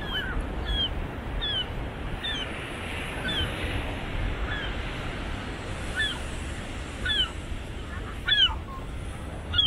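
A bird calling over and over with short chirps that fall in pitch, a little more than one a second, over steady outdoor background noise.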